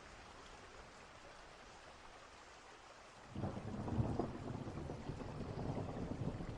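Steady rain falling, then about halfway through a low rumble of distant thunder swells in and keeps rolling.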